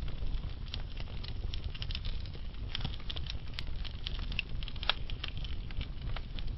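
Wood fire of burning logs crackling: a low steady rumble of flame with irregular sharp pops and snaps scattered throughout.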